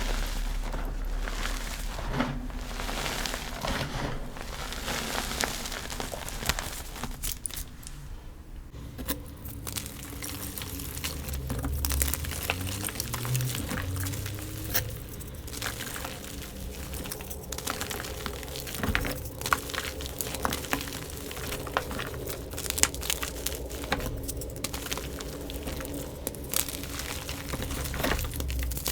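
Gym chalk being crushed and crumbled: a continuous crisp, crunchy crackle full of small sharp snaps.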